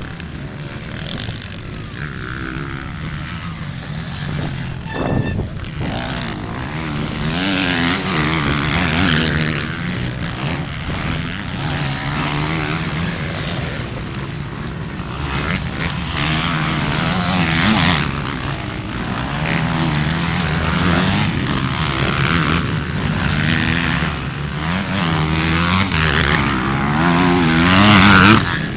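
A motor engine running continuously, its pitch wavering up and down, with louder swells several times.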